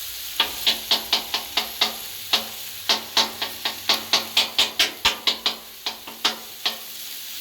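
Steel griddle scraper chopping chicken on a Blackstone griddle's flat steel top: quick sharp metal-on-metal strikes, about three or four a second with a brief pause midway, over the steady sizzle of the hot griddle.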